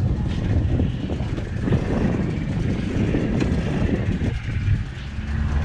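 Strong gusty wind buffeting the microphone in a loud, uneven low rumble.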